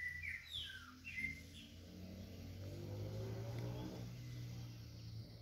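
A few short bird chirps in the first second and a half, then the faint low hum of a passing motor vehicle that swells and fades.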